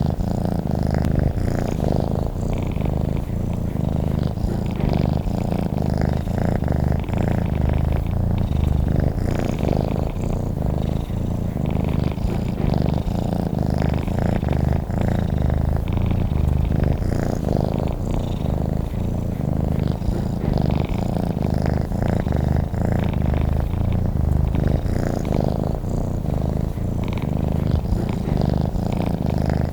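Domestic cat purring steadily, a continuous low, rapid rumble.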